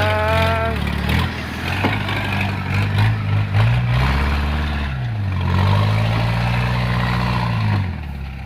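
Vehicle engine running and revving up and down repeatedly, its note climbing and dropping about three seconds in and again from about five and a half to eight seconds in.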